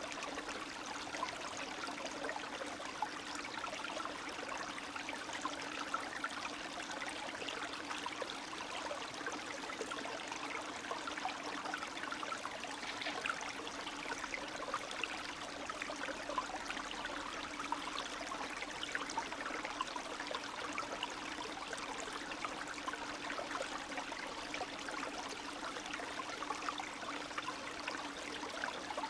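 Spring stream (a meltwater brook) running steadily, water trickling and babbling over stones with a constant low rush underneath.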